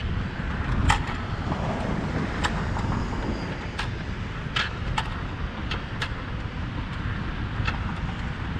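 Wind buffeting the microphone as a low, uneven rumble, with a scattered handful of short sharp clicks.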